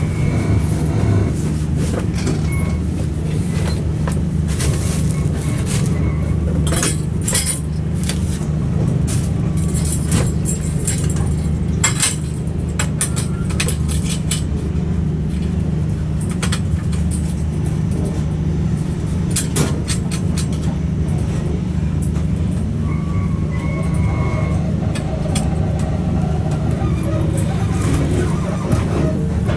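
Inside a sleeper train carriage: a steady low rumble, with frequent short clinks and rattles from the carriage's fittings.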